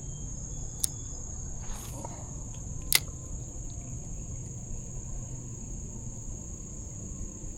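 Insects, cricket-like, buzzing in a steady, even high-pitched drone, with two sharp clicks about one and three seconds in.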